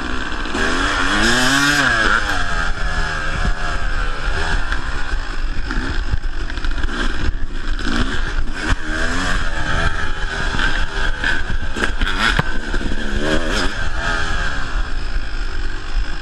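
Yamaha YZ250 two-stroke dirt bike engine revving up and dropping back again and again as the bike is ridden, heard from a chest-mounted camera with a steady rumble of wind and riding noise. A few sharp knocks come through partway through.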